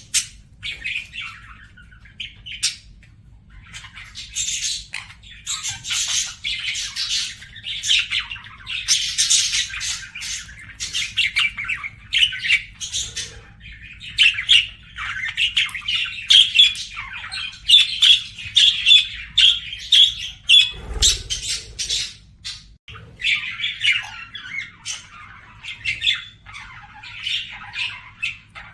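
Budgerigar warbling and chattering: a dense, unbroken run of fast chirps, squeaks and squawks, with a brief low thump about two-thirds of the way through.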